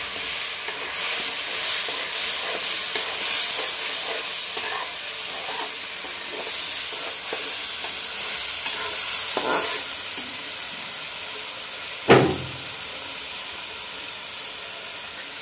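Ground onion-garlic masala paste sizzling steadily in hot oil in an aluminium kadai, being stirred and scraped with a metal slotted spoon as it is cooked down until the oil separates. A single sharp knock of the spoon on the pan about three-quarters of the way through.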